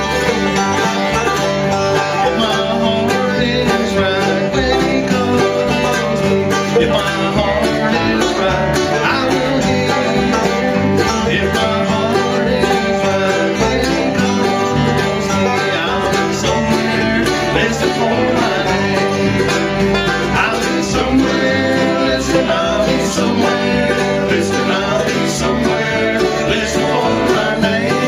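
Live bluegrass band playing an instrumental passage, with banjo and guitar prominent.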